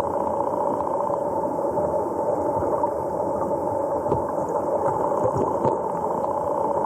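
Steady rush of a mountain stream's flowing water, with a few faint ticks.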